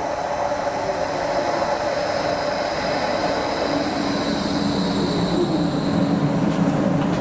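Electric tram running along the light-rail track, a steady rumble of wheels on rails with whining motor tones that drop in pitch about halfway through.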